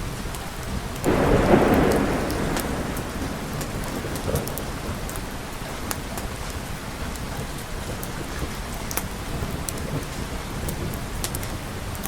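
Steady rain falling, with a clap of thunder about a second in that fades away over the next couple of seconds. Scattered sharp ticks run through the rain.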